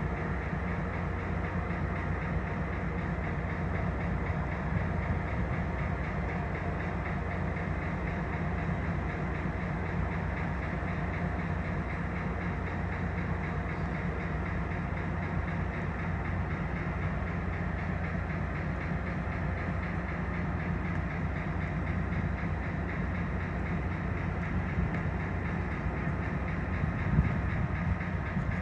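Train sound, a steady low rumble with a noisy hiss above it that holds at an even level throughout.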